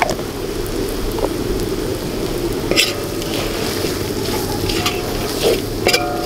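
Chillies, garlic and onion frying in oil in a large metal wok with a steady sizzle, while a metal spatula stirs and scrapes the pan. The spatula clinks sharply on the wok a few times, the last clink near the end leaving a short ring.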